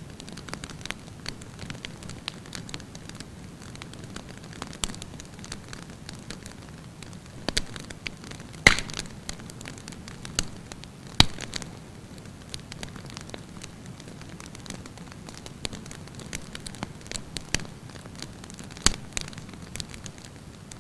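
Wood campfire burning with a steady low rush and frequent sharp crackles, with three louder pops about nine, eleven and nineteen seconds in.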